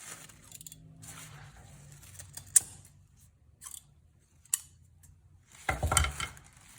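Scissors cutting a coco-peat (coconut coir) sheet: a few separate sharp snips, then a louder cluster of cutting and handling noise near the end.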